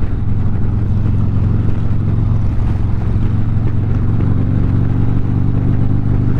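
Harley-Davidson V-twin motorcycle engine running steadily at cruising speed, with a constant low drone and road and wind noise, and no change in revs.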